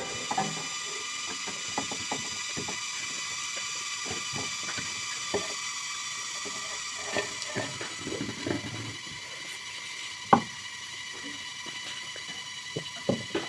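A person chewing and eating a last mouthful of rice and curry: soft, irregular mouth and chewing sounds with small ticks, and one sharper click about ten seconds in. A faint steady high hum sits underneath.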